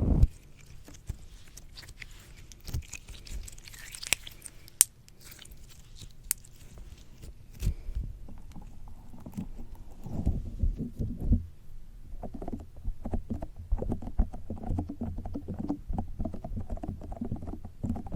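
Slime squished and pressed against a microphone: irregular sticky clicks and small pops, then from about halfway a dense run of low, muffled squelching.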